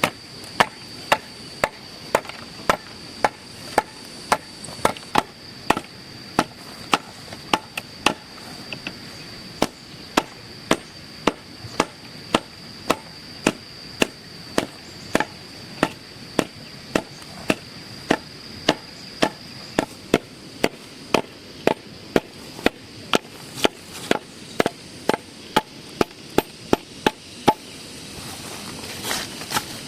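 Repeated chopping strokes, sharp evenly spaced blows at a steady rhythm of nearly two a second, over a steady high-pitched whine that stops about two-thirds of the way through.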